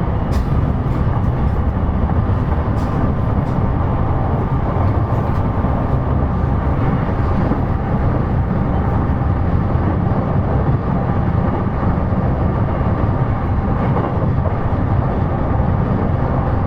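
Cabin running noise of a JR East E233 series electric train cruising between stations: a steady rumble of wheels on the rails, with a few faint ticks in the first few seconds.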